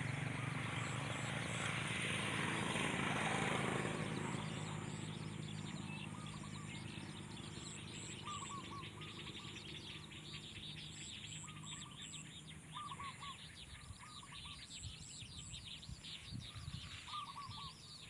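Outdoor ambience of birds chirping in short groups of quick notes every few seconds, over a background of faint high chirping. A low engine hum fades away over the first few seconds.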